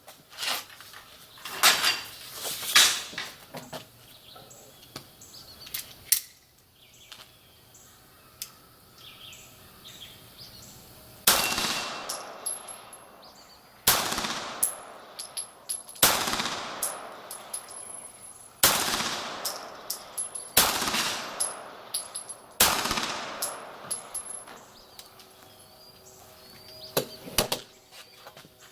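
Beretta 92G Elite Compact 9 mm pistol fired six times in slow, deliberate succession, about two seconds apart, starting about eleven seconds in. Each shot has a reverberating tail. A few sharp clicks and knocks come in the first few seconds.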